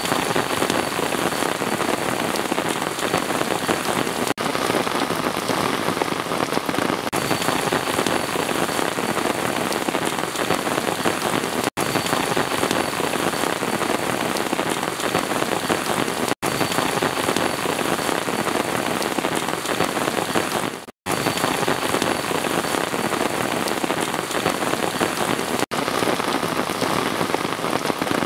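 Steady, heavy rain falling on a surface, a dense even hiss, with a few momentary dropouts where the sound cuts out for an instant.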